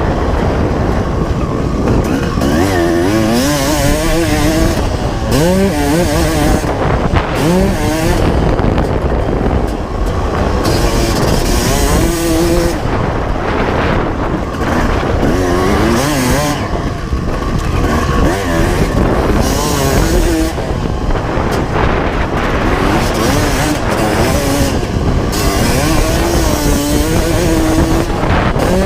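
1995 Honda CR250R two-stroke single-cylinder motocross engine revving hard and falling off again and again as the bike is ridden, its pitch climbing and dropping with throttle and gear changes. A heavy rumble of wind on the microphone runs underneath.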